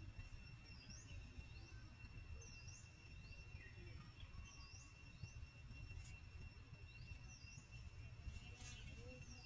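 Faint outdoor ambience: a bird repeating a short chirp that rises then falls, every couple of seconds, over a steady high whine and a low rumble.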